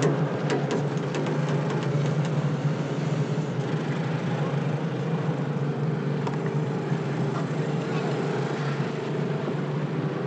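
Steady low mechanical hum, with a few sharp clicks and knocks in the first couple of seconds.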